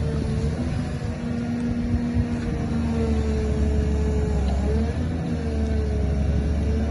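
2009 Caterpillar 323D L hydraulic excavator's diesel engine running steadily, a low rumble with a whine on top that wavers slightly in pitch.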